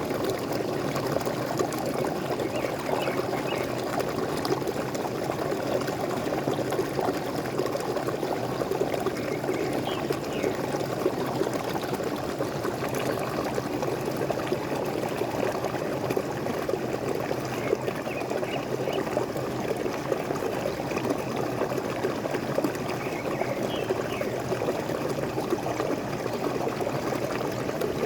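Waterfall water splashing and gurgling steadily, with faint high bird chirps now and then.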